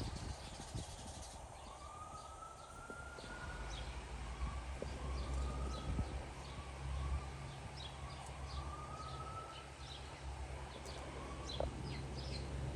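Faint emergency-vehicle siren wailing in the distance, its pitch sweeping up and down in slow repeated glides, with birds chirping over a low steady rumble.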